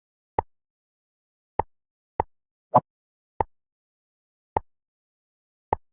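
Seven short, sharp clicks of jigsaw puzzle pieces being set into place, with silence between them. The click near the middle is a little longer and louder.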